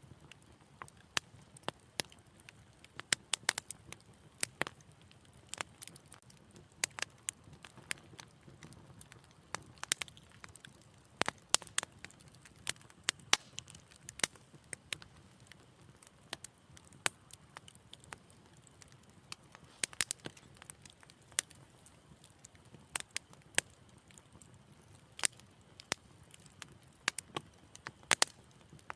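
Wood fire crackling in a fireplace: sharp pops and snaps at irregular intervals, some in quick clusters, over a faint low rumble of the flames.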